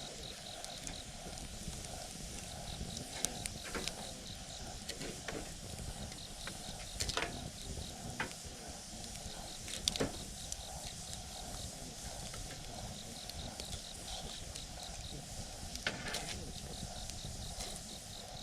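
Wood campfire burning with a steady low rush and a few sharp crackles and pops scattered through. Underneath, an insect chirps in short, evenly repeated pulses.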